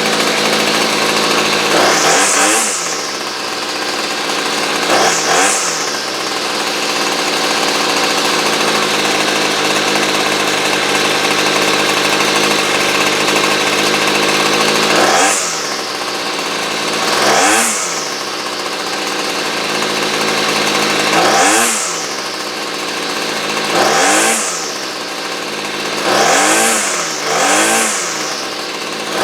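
Small two-stroke chainsaw engine running steadily, revved in about eight short blips that rise and fall in pitch, while its carburettor is tuned so it runs right.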